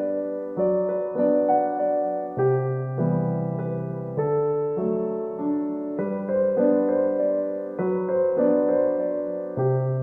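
Soft background piano music, a slow sequence of gently struck notes and chords.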